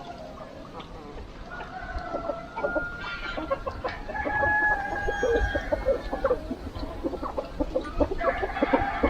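Chickens clucking, with longer drawn-out calls in the middle that sound like a rooster crowing.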